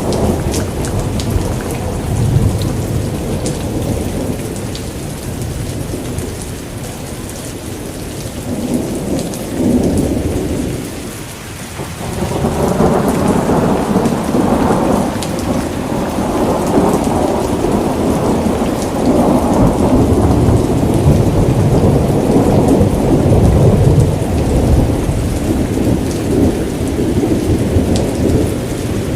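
Steady rain with rolling thunder. The rumble fades to a lull about eleven seconds in, then a new roll builds about a second later and carries on.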